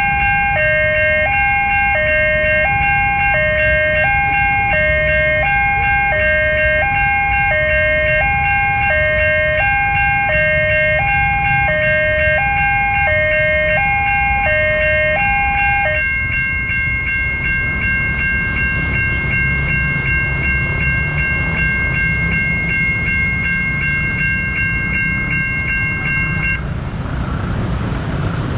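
Railway level crossing warning alarms sounding while a train passes with a low rumble. An electronic two-tone signal, alternating high and low about once a second, stops about halfway through. A second, steady high alarm tone cuts off near the end.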